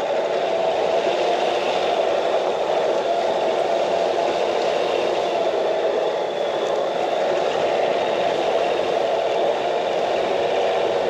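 Truck engine pulling steadily in four-wheel-drive low under load, climbing a snow-covered hill.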